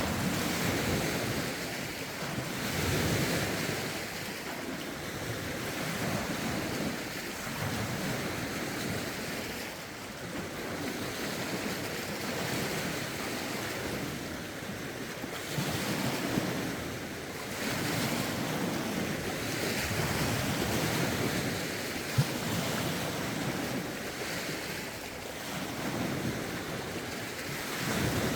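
Lake waves lapping and breaking on the shore in rising and falling swells every few seconds, with gusty wind and some wind noise on the microphone.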